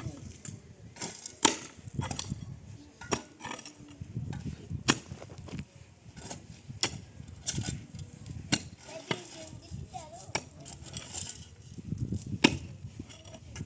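Irregular sharp knocks, one every second or two, over low background rumble, as of wood or tools being struck during work.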